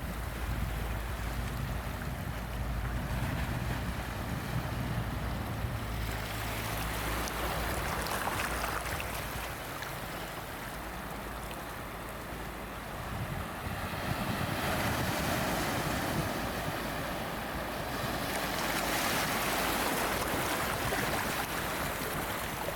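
Ocean waves breaking and washing up a beach, coming in slow surges that swell and ease, with three louder washes in the second half.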